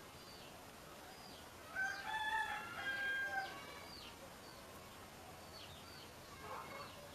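A rooster crowing once, about two seconds in, one call of several held notes lasting under two seconds. Small birds chirp faintly in the background.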